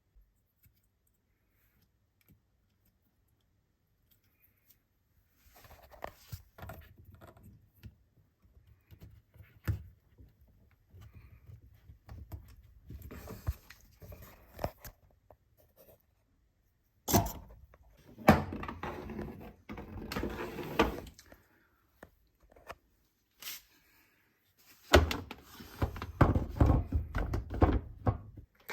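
Irregular knocks, clicks and scraping from dishwasher parts and tools being handled during a repair. It starts after about five seconds of near silence and grows louder towards the end.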